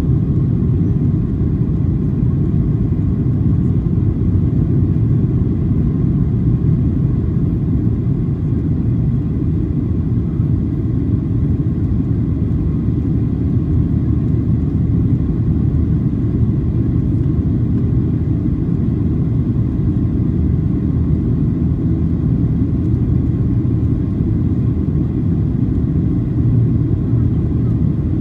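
Steady low rumble of cabin noise inside a Boeing 737-800 airliner, the CFM56-7B engines and airflow heard from a passenger seat, holding even throughout.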